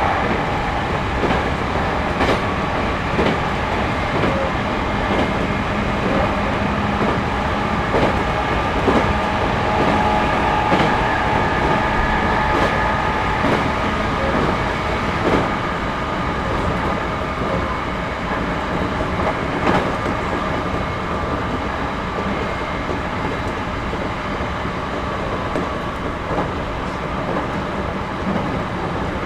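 Interior running noise of a Series 211-5000 electric multiple unit under way: a steady rumble and hum with frequent short knocks of the wheels passing over rail joints.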